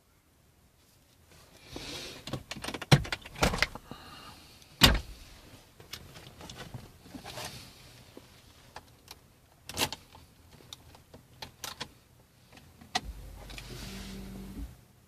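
Clicks, knocks and rustling of someone handling a Rover 400's keys and cabin fittings before starting it, with a short steady hum near the end.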